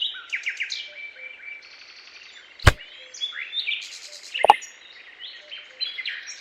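Small birds chirping and twittering in short, quick phrases, with two sharp knocks about two seconds apart.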